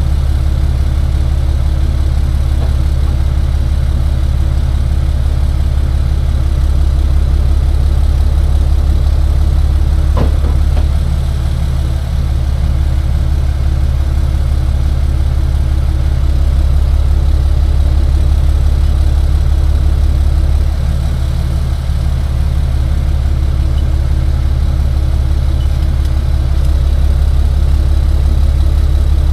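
Tow truck engine running steadily, a deep continuous hum with slight swells in level.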